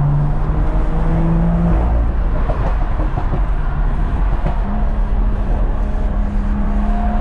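BMW M340i's B58 turbocharged inline-six running at road speed, its note climbing slowly as the car gathers speed, over heavy wind and road rumble through the open windows.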